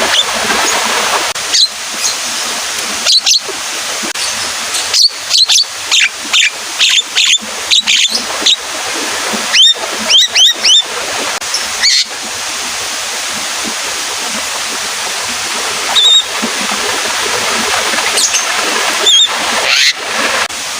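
Javan myna calling in a rapid series of short, sharp whistled notes, densest in the middle and scattered near the end, over a steady hiss of rain.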